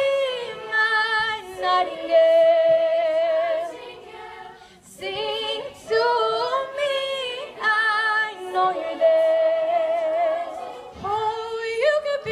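A cappella vocal group singing sustained harmonies, with a female voice holding long notes with vibrato. There is a short break about five seconds in.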